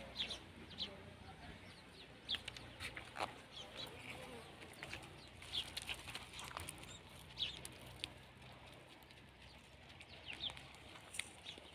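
Faint, scattered bird calls, short chirps and clucks coming every second or so.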